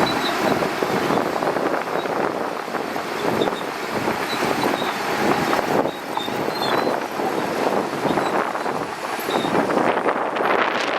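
Shantui DH17C2 crawler bulldozer running and working: a loud, steady mass of engine and machinery noise with no clear engine tone.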